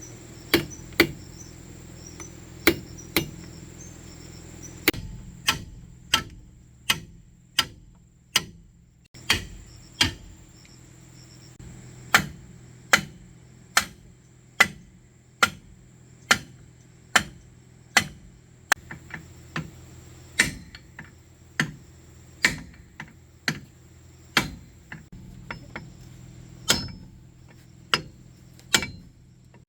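Hammer striking metal in steady repeated blows, about one to two a second, each ringing briefly, over a steady low hum.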